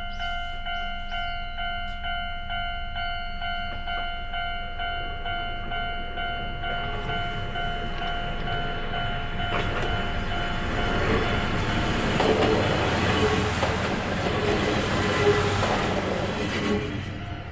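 A railway level-crossing bell rings rapidly, about three strokes a second. A Kominato Railway KiHa diesel railcar then approaches and passes, its rumble building to loudest a few seconds before the end and then cut off.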